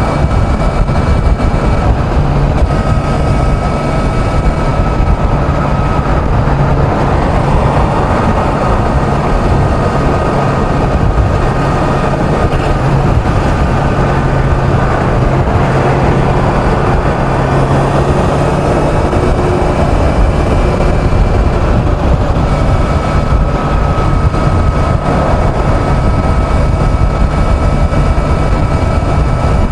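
Kawasaki Z900's inline-four engine running at a steady highway cruise, a constant engine note under a loud rush of wind and road noise.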